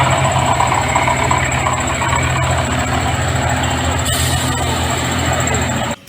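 Truck engine idling steadily, then cutting off abruptly near the end.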